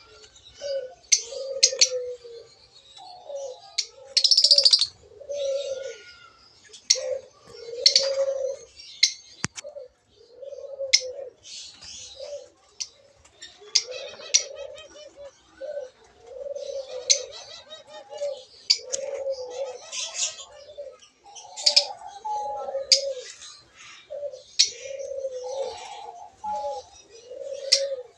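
Lovebirds chirping and chattering with sharp, high-pitched calls, over low cooing notes that repeat about once a second.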